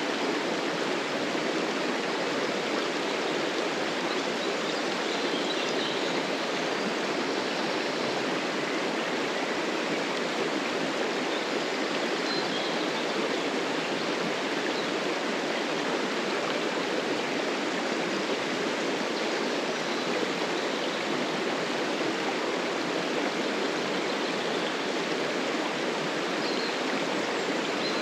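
River water flowing over a shallow bed, a steady rushing.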